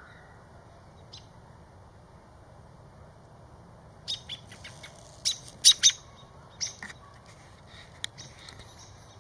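A bird's short, sharp, high chirps: a quick run beginning about four seconds in, the loudest two close together near the middle, then a few fainter ones near the end.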